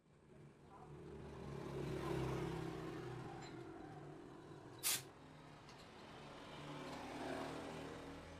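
An engine running, rising in speed twice, with a single sharp crack about five seconds in.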